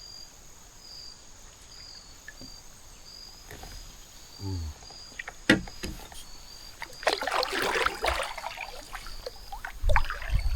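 Insects chirping steadily in short, evenly spaced high pulses, about one and a half a second. A few sharp clicks come about five seconds in, a noisy burst about a second long follows around seven seconds in, and low thumps come near the end.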